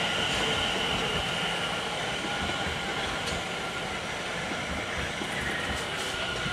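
Class 710 electric multiple unit running along the platform, a steady rumble with a steady high-pitched whine over it.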